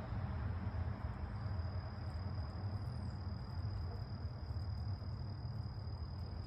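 A steady high-pitched insect trill holds one unbroken tone over a constant low background rumble.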